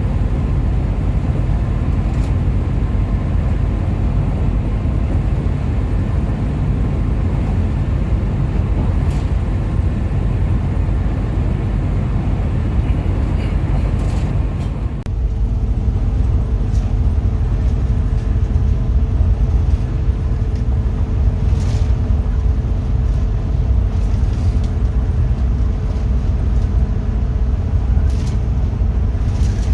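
Hino RM 280-powered coach on the move: a loud, steady low rumble of engine and road noise. About halfway through the higher hiss drops away and a steady hum carries on beneath the rumble.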